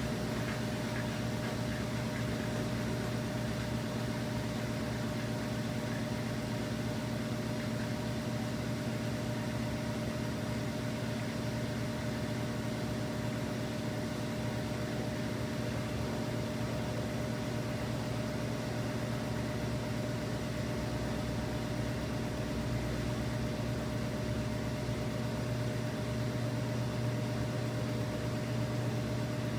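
Washing machine running with a steady motor hum and a constant low whine, unchanging throughout.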